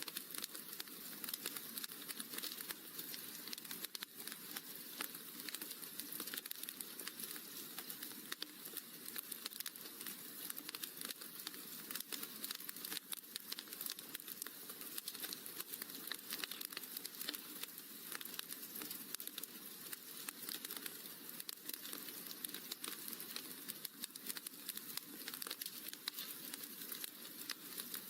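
Wood fire crackling in a fireplace: a dense, steady run of small quick pops over a soft hiss.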